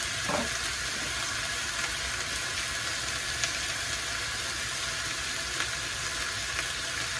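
Squid, pork and vegetable stir-fry sizzling steadily in a frying pan, with faint crackles.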